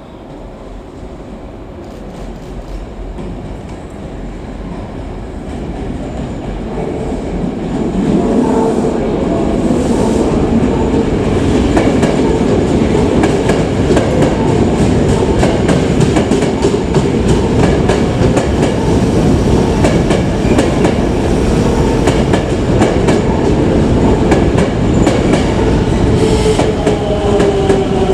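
Toei 5300 series electric train approaching through the crossovers, growing louder over the first eight seconds, then running in close by with a rapid clatter of wheels over rail joints and points. A squeal sets in near the end.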